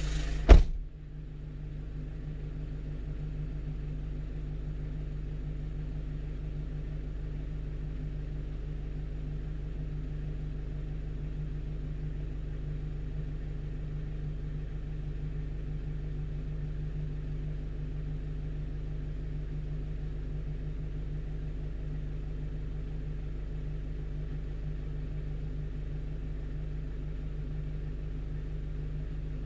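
A single sharp thud about half a second in, then a 1-ton truck's engine idling steadily, heard from inside the cab.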